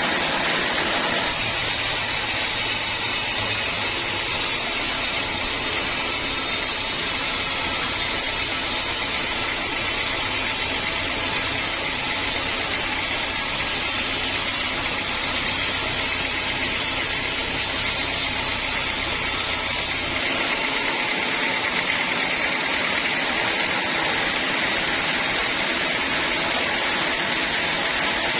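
Sawmill machinery running steadily, with a low motor hum underneath that drops out about two-thirds of the way through.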